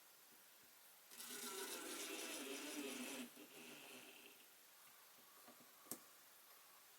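Power drill driving a screw for about two seconds to fasten the window frame, followed a couple of seconds later by a single sharp click.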